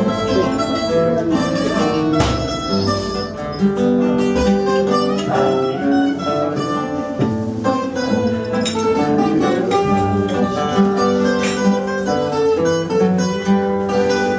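Fado accompaniment from a Portuguese guitar and a viola de fado (classical guitar): a plucked melody over chords, played as an instrumental interlude between sung verses.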